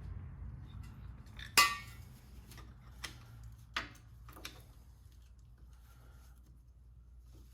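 Steel tools and parts clinking inside the differential carrier of a Chrysler 8.25 axle during teardown: one loud, ringing metal clink about one and a half seconds in, then a few lighter taps.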